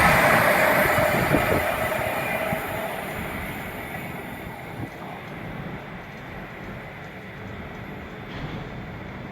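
A passing train running away along the track, its rumble fading over about five seconds, with a few wheel clicks over rail joints as it goes.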